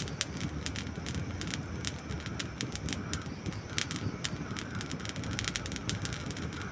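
Campfire of dry wood logs burning, crackling and popping with many irregular sharp snaps over the low rush of the flames.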